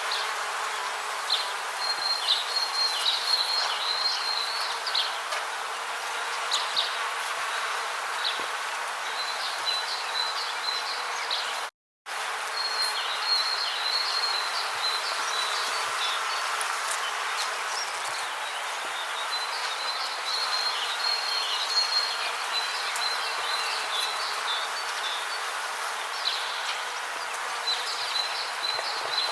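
Rainforest ambience: high insect trills come and go in clusters over a steady hiss. The whole track drops out to silence for a split second about twelve seconds in.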